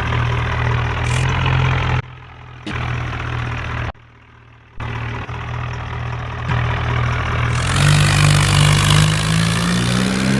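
Tractor engine running steadily, with the sound cutting off abruptly twice in the first five seconds, then revving higher about three-quarters of the way through.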